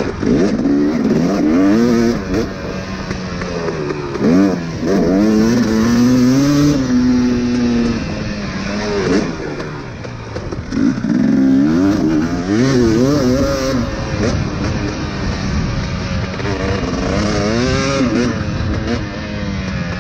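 Dirt bike engine being ridden around a motocross track, revving up and dropping back again and again as the rider accelerates and eases off between corners and jumps.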